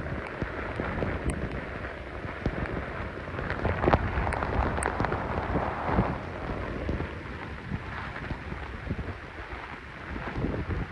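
Heavy rain and gusting wind of a hurricane storm band, the wind buffeting the microphone in uneven surges. The strongest gust comes about four seconds in.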